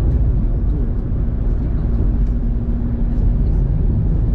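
Steady low rumble of road and tyre noise heard from inside a moving car's cabin, with a faint steady hum for a couple of seconds midway.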